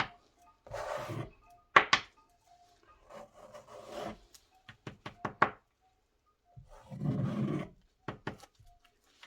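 Wet acrylic paint being scraped off a stretched canvas: three longer scraping strokes, with sharp clicks and taps between them.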